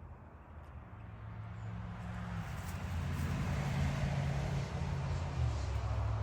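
A motor vehicle going by: a low engine hum with a rush of road noise that builds over a few seconds, is loudest around the middle and then eases.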